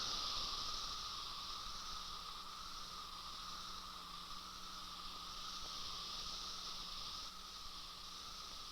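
Chorus of periodical cicadas: a steady, dense, shrill drone that slowly fades out.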